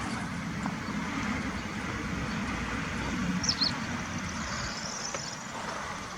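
Steady low rumbling background noise with a brief high chirp about three and a half seconds in.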